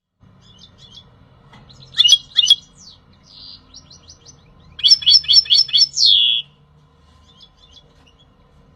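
European goldfinch singing: soft twittering, two loud sharp notes about two seconds in, then a fast run of loud notes around five seconds ending in a drawn-out falling note.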